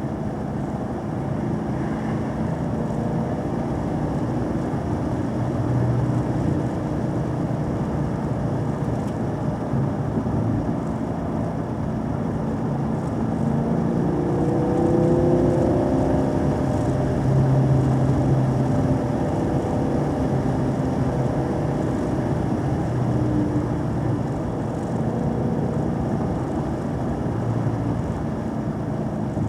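A vehicle engine running under way, its pitch rising and falling with the throttle, over steady road and wind noise, louder for a few seconds past the middle.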